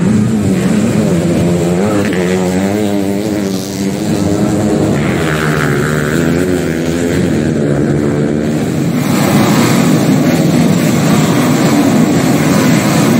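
Several grasstrack dirt-bike engines running together, their pitch wavering up and down as riders blip the throttles. From about nine seconds in the sound gets louder and denser as a full start grid of bikes revs.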